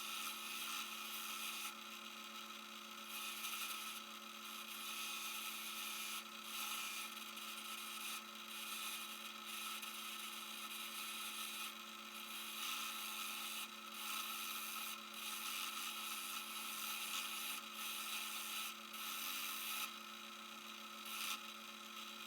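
Electric power tool running steadily with an abrasive rasping against the workpiece; the rasp swells and eases every second or two as the work is pressed on and drawn back.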